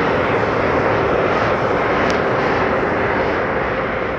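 Automatic car wash machinery running: a loud, steady rushing with a faint steady hum underneath.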